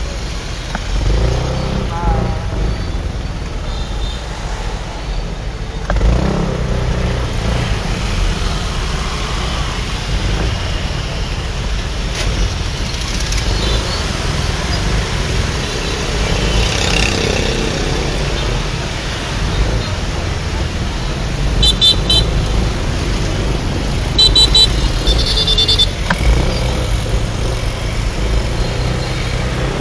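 Motorbike traffic heard while riding through city streets: a steady engine, road and wind rumble, with a few quick horn beeps about two-thirds of the way through and another run of beeps just after.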